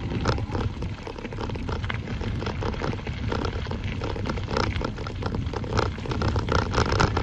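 E-bike rolling along a rough woodland path: a dense, irregular crackle and rattle of tyres over the loose surface, with low rumble underneath.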